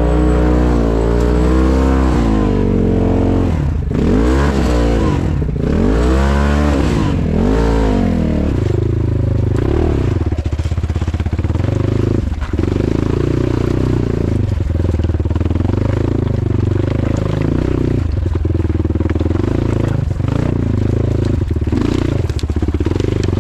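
Motorcycle engine revved up and down in a series of swells for the first several seconds, then held at a steady, higher speed with a slightly uneven note.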